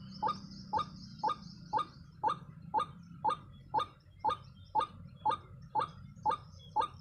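White-breasted waterhen (ruak-ruak) calls, a short rising note repeated evenly about twice a second.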